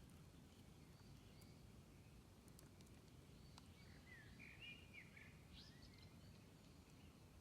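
Near silence: faint outdoor background hum, with a small bird twittering briefly about halfway through and a few faint ticks.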